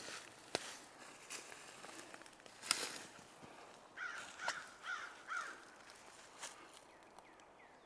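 A bird calling four times in quick succession, short arching calls about half a second apart, about four seconds in, amid outdoor birdsong. A few sharp clicks come singly before and after, the loudest near the middle.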